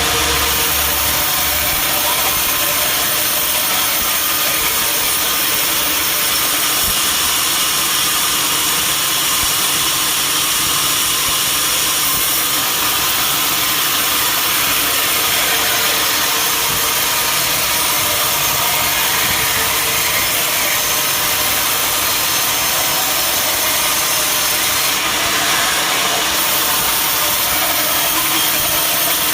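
Sawmill running steadily, its blade cutting through a mahogany log, with the drive engine running underneath.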